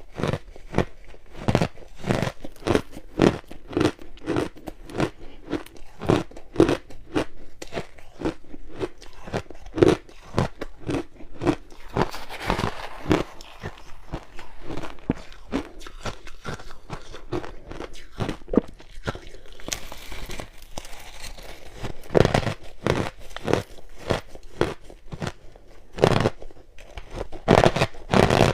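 Ice being bitten and chewed close to the microphone: a steady run of sharp crunches, roughly two a second, with louder bites near the end.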